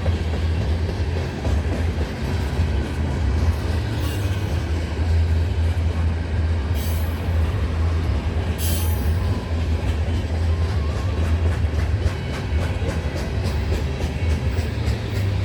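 Freight train cars rolling past at speed: a steady heavy rumble of wheels on rail, with a few brief high-pitched wheel squeals and a run of regular clicks as wheels cross rail joints near the end.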